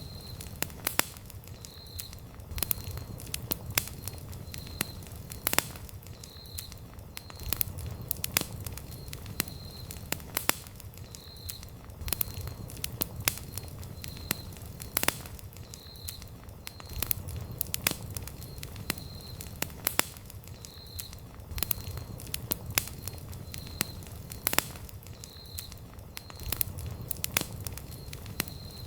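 Wood campfire crackling: irregular sharp pops and snaps from the burning wood over a low steady rumble of the flames. A faint high chirp repeats about once a second.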